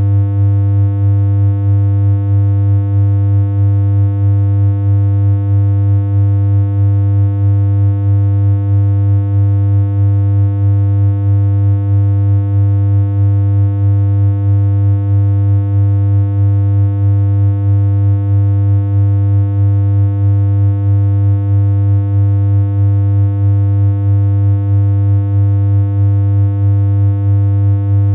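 Steady synthesized electronic hum: one low, unchanging tone with a buzzy stack of overtones and a slight regular wobble in level.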